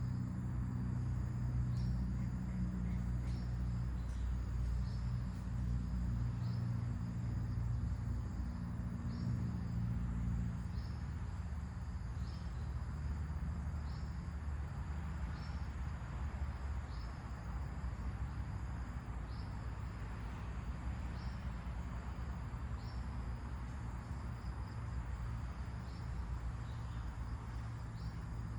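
Outdoor nature ambience: wind rumbling on the microphone, with a short high chirp repeating every second or so over a steady hiss. The low rumble is heavier in the first third and eases off after that.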